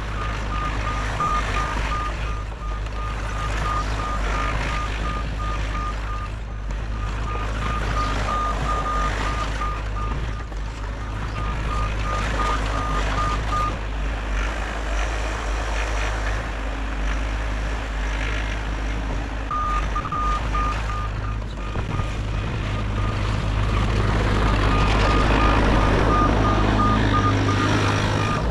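Compact excavator, a Bobcat E50, running steadily while its travel alarm beeps in a rapid, even pattern. The beeping stops about halfway through and resumes a few seconds later. The engine gets louder near the end.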